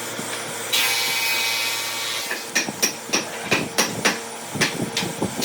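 A power tool runs for about a second and a half, then a string of sharp knocks follows, about three a second.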